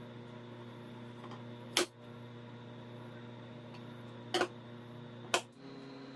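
Three sharp knocks over a steady hum: the first about two seconds in, then two more close together near the end. The hum shifts pitch just before the end.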